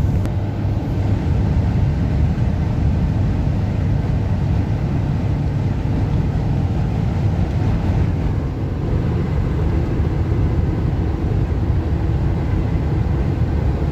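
A car driving at speed in a strong wind: a steady, dense, low rumble of road and wind noise.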